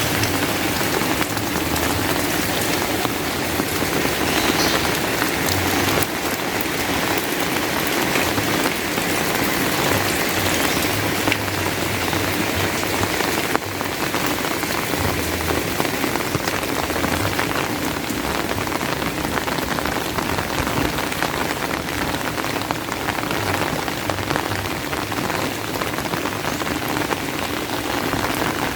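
Steady rain falling: an even hiss, thick with the patter of drops.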